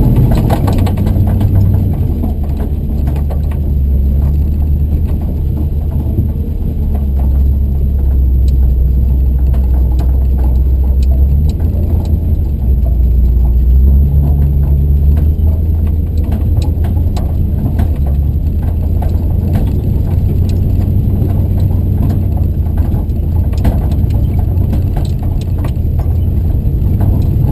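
Vehicle engine running at low speed on a towing run, its pitch stepping up and down, with scattered clicks and rattles.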